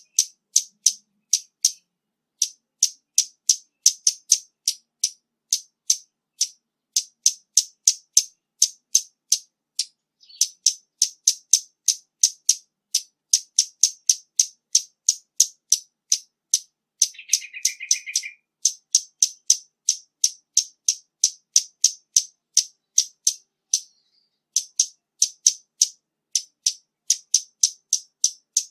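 Scarlet-backed flowerpecker calling: sharp, high ticking notes repeated evenly about three times a second in long runs, broken by brief pauses. A short, lower twittering comes in a little past halfway.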